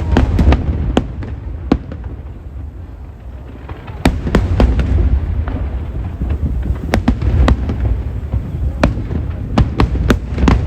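Aerial fireworks bursting: sharp cracks over a low rumble of booms. It eases off for a couple of seconds, then a dense run of bangs starts about four seconds in.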